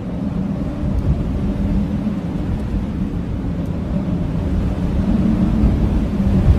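Howling blizzard wind: a steady low rumble of wind with a faint held moan, swelling a little about a second in and again near the end.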